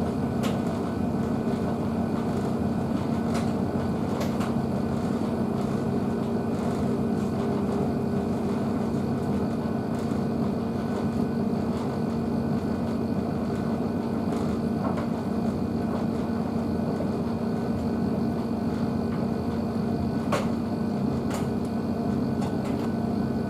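Blomberg WNF9448 washing machine running mid-wash: a steady motor hum with a few faint clicks.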